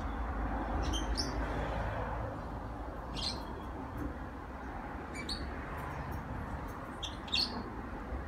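Small birds chirping: short high chirps in little groups about every two seconds, over steady low background noise.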